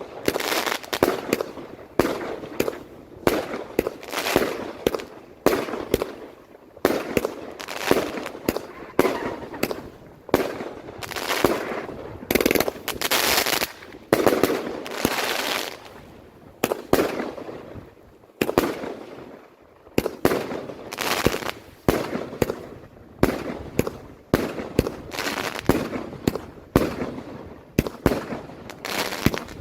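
Fireworks going off in a long unbroken barrage of sharp bangs, about one to two a second, each trailing off in a hiss.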